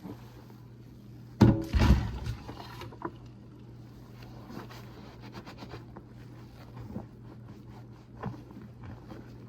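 Steady low hum of a car running, heard from inside the cabin, with a loud knock and rustle about one and a half seconds in and light clicks after.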